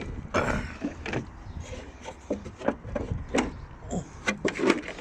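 Irregular knocks, clunks and clicks of a petrol lawnmower being handled and tipped up to show its underside.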